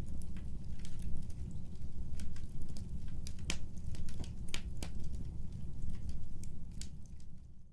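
Wood fire burning, with irregular sharp pops and crackles of the burning logs over a steady low rumble, fading out near the end.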